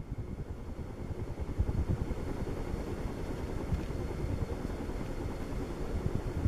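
1982 Casablanca Zephyr ceiling fan running near its top speed, about 190 to 200 RPM, its four wood blades moving a lot of air. The air rush buffets the microphone as a steady, fluttering low rumble that gets a little louder about one and a half seconds in.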